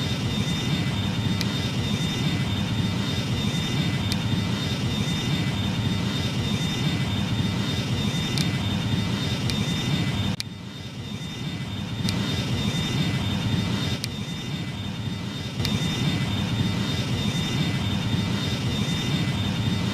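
Jet airliner engines running, a steady rush with a thin high whine over it. The sound drops abruptly about halfway through and again a few seconds later, then comes back.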